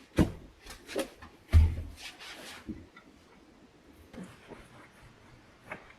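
A few knocks and handling noises in a small room, the loudest a heavy thump about a second and a half in, followed by faint small clicks and rustles.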